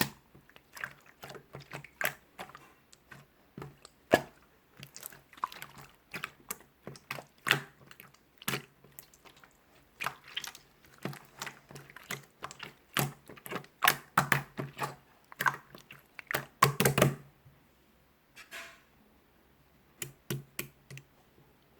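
A run of irregular light taps and clicks, several a second, thickest just before the end and then thinning out to a few scattered taps.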